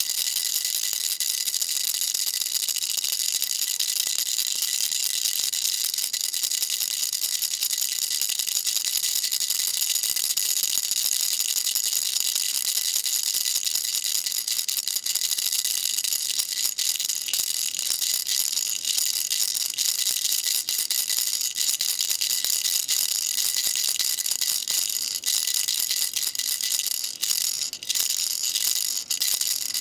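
Baby rattle shaken continuously: a dense, steady, high-pitched rattling, with a few brief dips near the end.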